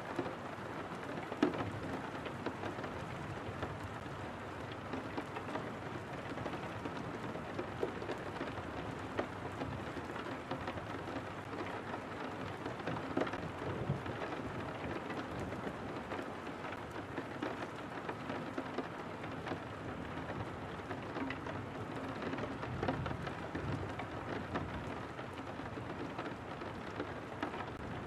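Steady rain on a window pane: a dense, even patter with many individual drops ticking on the glass.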